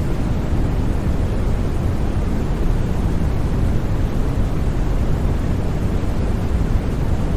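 Steady, unchanging white noise for sleep, a deep even rush with most of its weight in the low end and nothing else in it.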